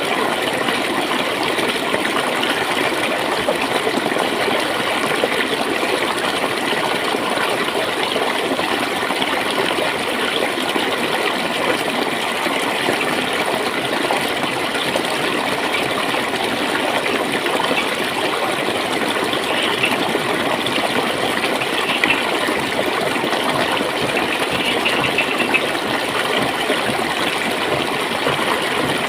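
Clear water flowing and gurgling in a steady, even rush.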